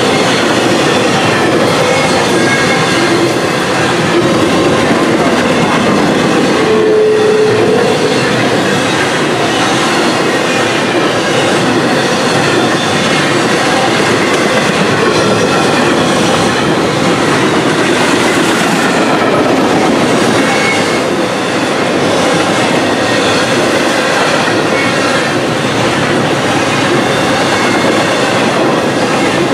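Empty intermodal flatcars of a freight train rolling past, their steel wheels clattering steadily on the rails, with a few short wheel squeals, the clearest about seven seconds in.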